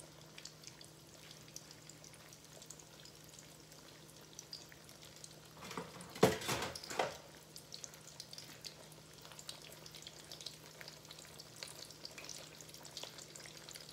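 Batter-coated naan shallow-frying in oil in a nonstick pan, with a faint, steady sizzle and fine crackle. A steady low hum runs underneath, and a short, louder burst of noise comes about six seconds in.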